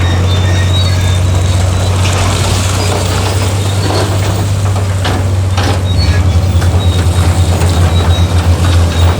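Heavy diesel engine of earthmoving machinery running with a steady low drone, with a few metallic knocks or clanks. About six seconds in, the drone starts to throb about four to five times a second.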